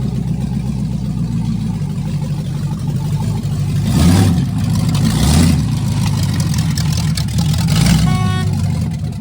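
1978 Chevy Nova's engine running steadily, revved up briefly three times, about four seconds in, about five seconds in and near the end.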